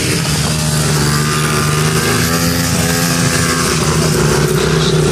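Small mini dirt bike engines running, their pitch rising and falling a little as the throttle is worked.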